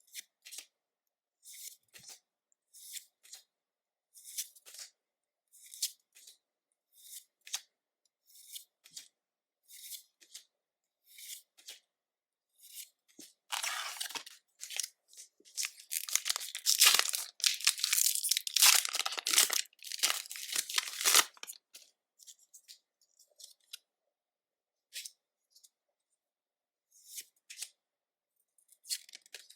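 Pokémon trading cards handled by hand, with short crisp card slides about once a second. About 13 seconds in, a foil booster pack is torn and crinkled open for around eight seconds, the loudest part. A few more card slides come near the end.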